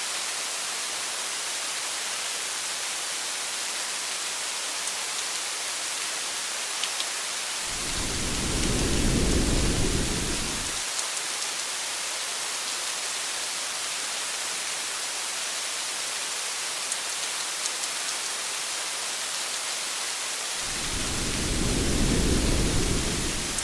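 Steady rain hissing on a car's windshield and roof, with a few faint drop ticks. Low thunder rolls in and fades twice, each roll lasting about three seconds: once about a third of the way in, and again near the end.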